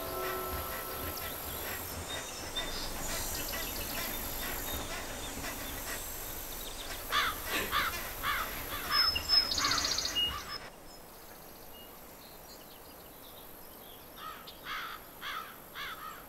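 Outdoor ambience with a bird calling in quick runs of short, falling notes. About ten seconds in, the background noise drops abruptly, and the bird's calls start again near the end.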